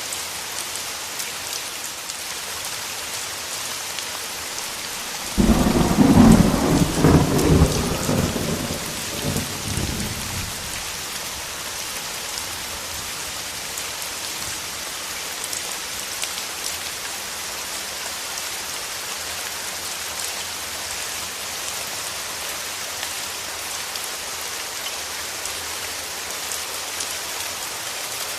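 Steady rain falling, with a clap of thunder breaking sharply about five seconds in and rumbling away over the next five seconds.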